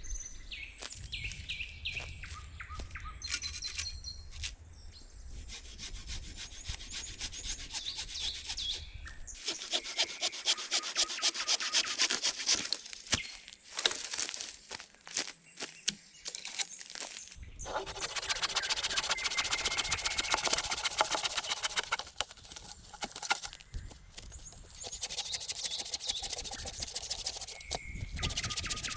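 A hand tool rasping against wood in quick repeated strokes, in several spells broken by short pauses, with birds chirping now and then.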